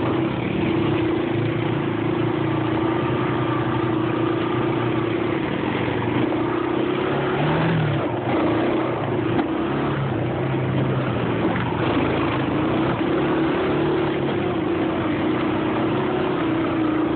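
Engine of a ridden vehicle running steadily under way, its note holding fairly even with small rises and dips, over a rushing rumble of wind and terrain.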